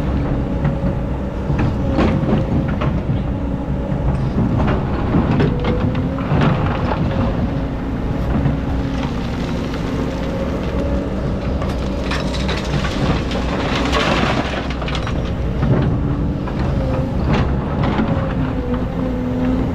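Excavator working through hard, compacted old sand: its engine runs steadily under load while the bucket scrapes and knocks against the hard layer, with a louder grinding scrape about twelve seconds in.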